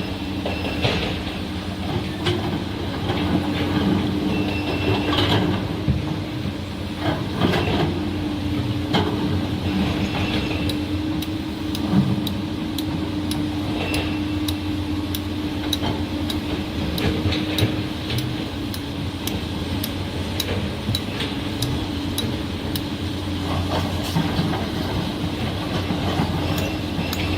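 Heavy diesel machinery, such as a large excavator, running steadily, with scattered metallic knocks and clanks. From about ten seconds in, a run of light ticks comes roughly twice a second.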